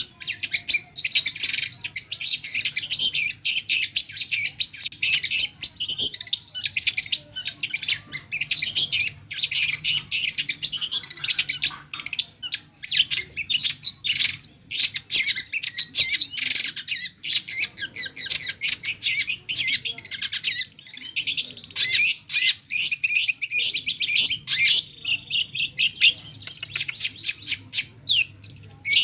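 Long-tailed shrike (cendet) in full song: a fast, almost unbroken stream of high chattering and whistled notes packed with mimicked calls of other birds, with only brief breaks.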